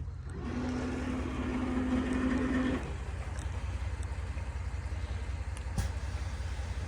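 A vehicle engine running with a steady low rumble. About half a second in, a louder steady whining tone with a hiss joins it for a little over two seconds and then cuts off abruptly. A single sharp click comes near the end.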